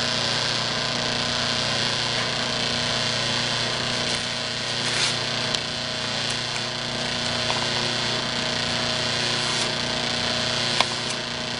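Bench buffing-wheel motor running with a steady hum, with a few short scrapes or clicks, the sharpest one near the end.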